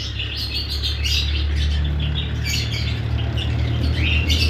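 A flock of caged lovebirds, Fischer's among them, chirping and squawking in many short, overlapping calls, over a steady low hum.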